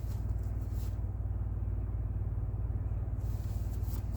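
Steady low rumble of a car idling, heard from inside the cabin, with a few faint rustles near the start and end.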